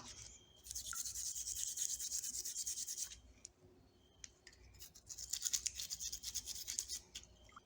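Rapid back-and-forth scrubbing on a rusty hand tool, in two bouts of about two seconds each with a short pause between.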